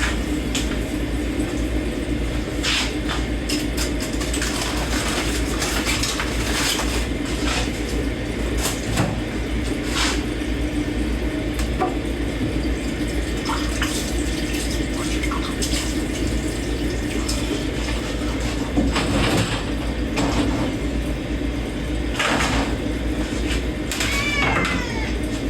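Dishes being washed by hand in a kitchen sink: tap water runs steadily while plates and cutlery clink at irregular moments. A cat meows once near the end.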